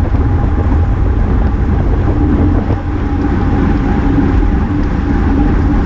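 Wind rushing over the microphone of a camera on a moving racing bicycle, a steady low rumble with a faint constant hum running through it.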